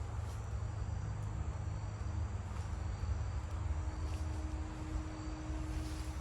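Steady chorus of forest insects such as crickets, thin high trilling tones, over a continuous low rumble.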